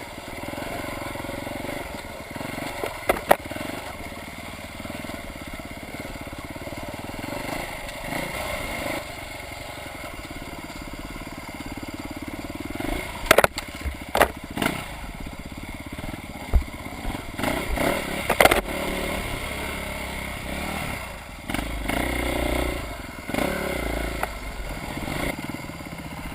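Off-road vehicle engine running steadily at low revs, with a sharp knock or clatter every now and then.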